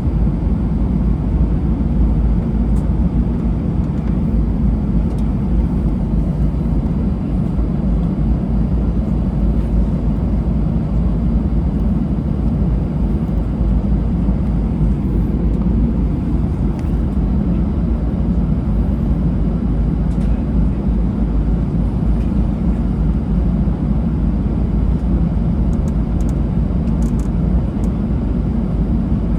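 Steady low rumble of a jet airliner's engines and airflow heard inside the passenger cabin, holding even throughout with no rise or fall.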